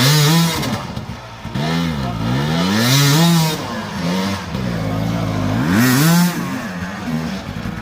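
Dirt bike engine revving up and dropping back three times, about three seconds apart, as the throttle is opened and closed.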